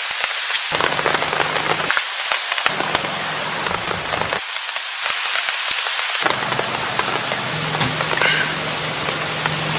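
Steady rain falling, a dense hiss dotted with many sharp drop taps.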